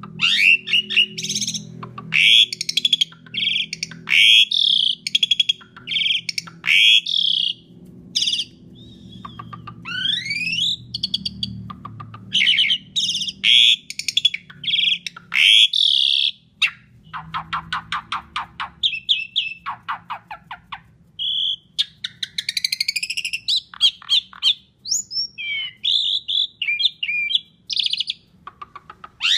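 Asian pied starling (jalak suren) singing a long, varied song: whistled notes that slide up and down mixed with harsh chattering calls, and a run of fast rattling notes about two-thirds of the way through, over a faint low hum.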